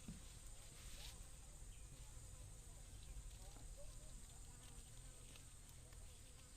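Faint, steady high-pitched insect drone, with a low background rumble.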